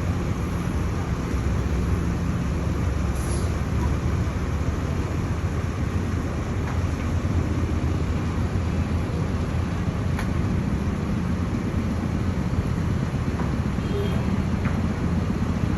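Heavy engine running steadily with a low rumble, a faint steady hum over it and a few light ticks.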